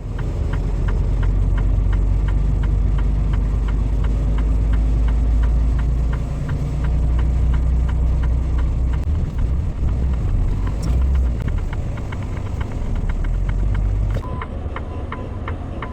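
Semi truck's diesel engine running, heard from inside the cab, with a steady rapid ticking of about three clicks a second; the engine rumble eases off near the end.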